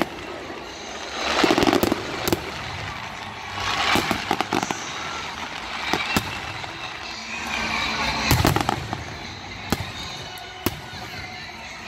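Aerial fireworks shells bursting one after another: sharp bangs every second or two with crackling between them, and the fullest blasts about a second and a half in and again about two-thirds of the way through.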